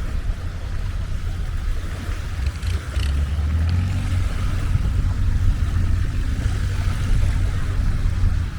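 Longtail boat engine running, a low rumble that grows louder about three seconds in.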